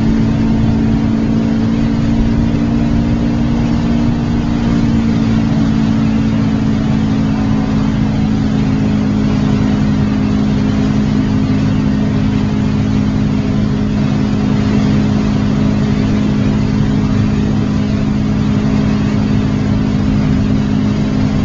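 Motorboat engine running at a steady pitch, with a constant noisy rush of water and wind over it.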